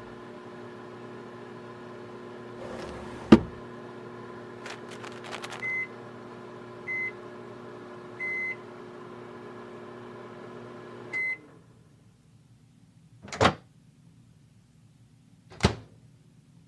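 Microwave oven running with a steady hum while heating a heat pack, with a sharp click about three seconds in and several short high beeps; the hum stops with a beep about eleven seconds in. Two loud knocks follow, spaced about two seconds apart.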